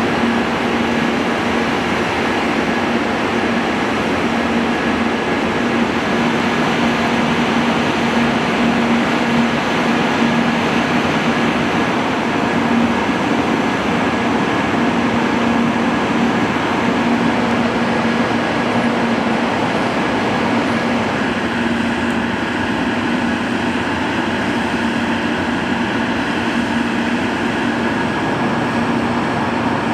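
Steady mechanical hum and whir of a shinkansen train with a constant low tone running through it, its character shifting slightly about two-thirds of the way through.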